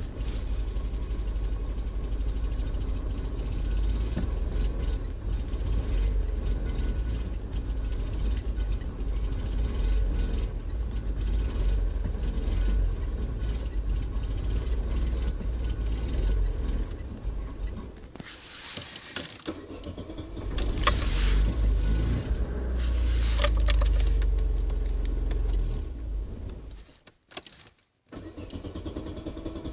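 A small 1.2-litre petrol car engine running during a hard cold start. It fades out about eighteen seconds in, comes back a couple of seconds later, and then cuts off abruptly near the end.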